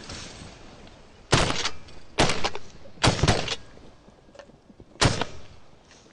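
Four shotgun blasts fired at ducks, irregularly spaced over about four seconds, each with a short echo.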